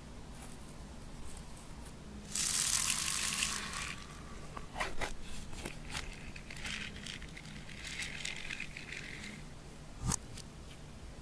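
Hands working sticky slime: crackling, squishing and rustling. A loud rustling hiss lasts about a second early on, and there is a single sharp click near the end.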